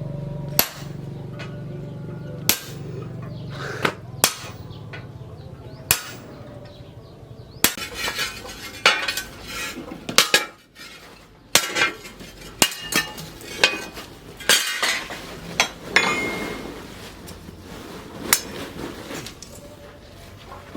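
Hammer strikes on steel. At first they come as single blows a second or two apart, then as quicker clusters, some with a short metallic ring. A low steady hum sits under the first seven seconds or so and then stops.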